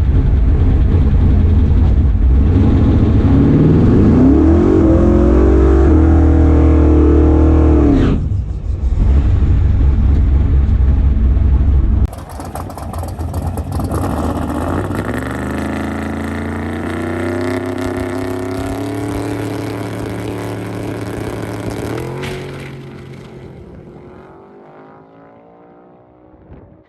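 Twin-turbo big-block Chevy V8 at full throttle on a drag-strip pass, its pitch climbing, breaking off about eight seconds in, then climbing again before fading away over the last few seconds.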